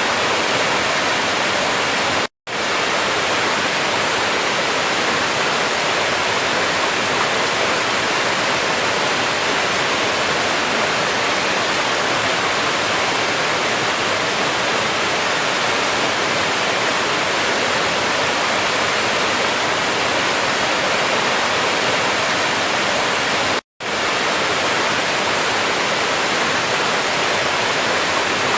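Waterfall: a steady, even rush of falling water, broken twice by a split-second drop to silence, about two seconds in and near the end.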